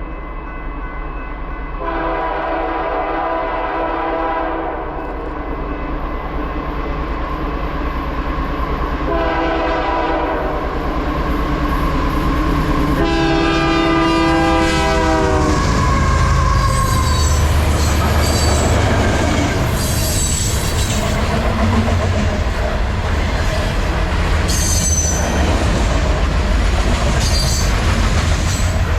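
Freight train approaching and passing: the locomotive horn sounds three times, the last long blast dropping in pitch as the locomotives go by. Then comes the steady rumble of the locomotives and rolling freight cars, with brief high wheel squeals.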